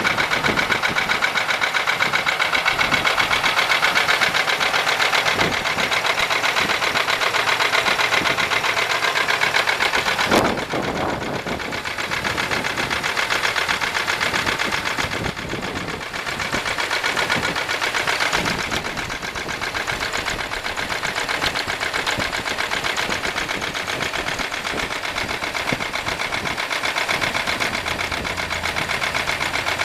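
1995 Buick LeSabre's 3.8-litre V6 idling with a rapid, steady knocking tick, which the owner suspects is valvetrain knock. One sharper, louder knock about ten seconds in.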